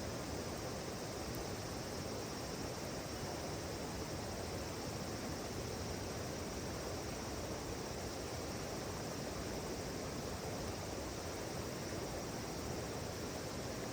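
Steady rushing of river water flowing past, an even hiss without breaks.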